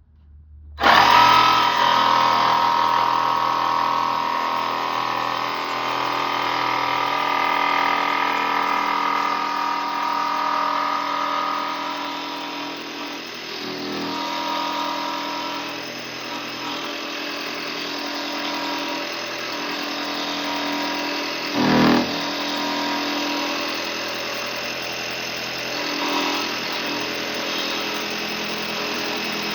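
Electric jigsaw starting up about a second in and running steadily as it cuts a square opening for an electrical box, its pitch shifting a little with the load and briefly louder about two-thirds of the way through.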